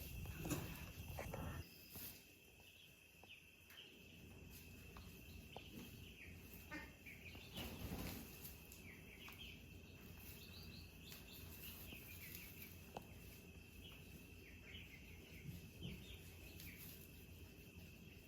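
Quiet rural ambience: a faint steady high-pitched insect drone with scattered short bird chirps, and a few soft rustles near the start and about eight seconds in.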